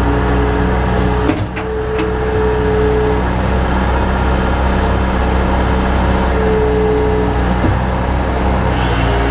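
Bobcat 853H skid steer's engine running steadily, with a knock and a brief dip in level about a second and a half in.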